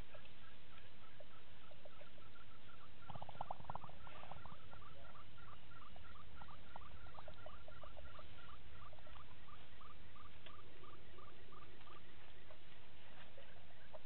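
A bird calling in a rapid series of short, repeated notes, about four a second. The calls are densest and loudest a few seconds in and die away about three-quarters of the way through, over a steady low outdoor hiss.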